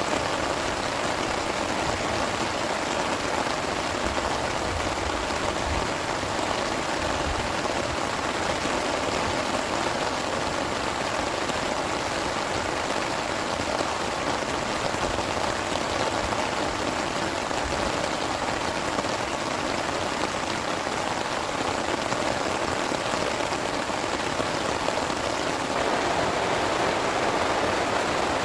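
Heavy rain falling steadily, a dense even hiss with no break, with a few faint low rumbles underneath about four to six seconds in.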